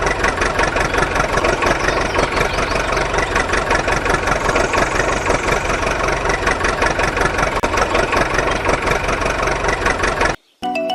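An engine idling steadily with a rapid, even pulsing, which cuts off suddenly near the end. A short tune starts just after.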